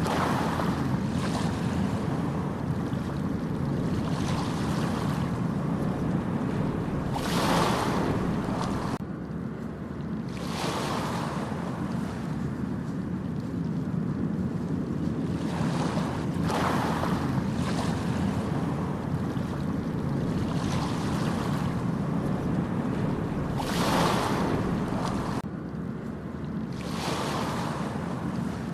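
Ocean waves breaking on a beach, a rush of surf swelling and washing back every few seconds over a steady low rumble, with wind buffeting the microphone.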